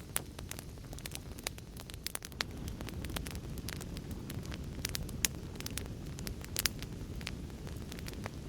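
Fire crackling: irregular sharp pops and snaps, a few louder ones, over a steady low rumble of burning.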